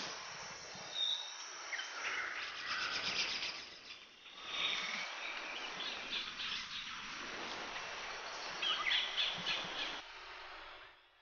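Birds chirping and calling in short high notes over a steady outdoor hiss; the sound drops away sharply about ten seconds in.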